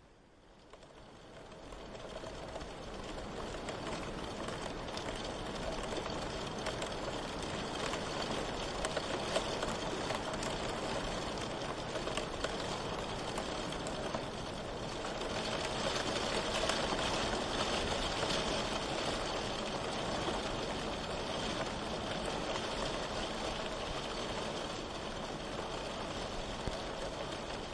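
Steady rain falling: a dense, even hiss with fine spattering of drops. It fades in over the first few seconds and swells slightly around the middle.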